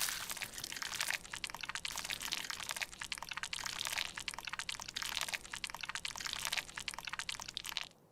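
Dense, crisp crackling and scraping that swells about once a second, from a makeup product being crushed and worked with a tool.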